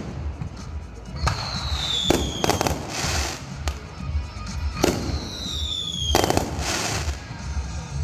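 Consumer fireworks going off: two whistles that fall in pitch, each ending in sharp bangs, with several more bangs every second or so in between.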